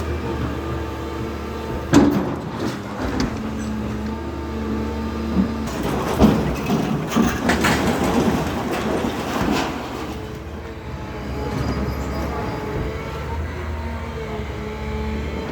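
An engine running steadily with a low hum. It is broken by a sharp knock about two seconds in and a spell of clattering and scraping in the middle.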